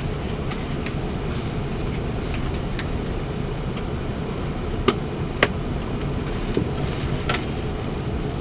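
Steady low rumble inside the cabin of an Airbus A380 rolling on the ground after landing, with two sharp clicks about five seconds in.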